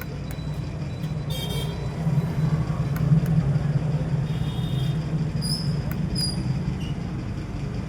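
Steady low rumble of background traffic, with several short high-pitched toots.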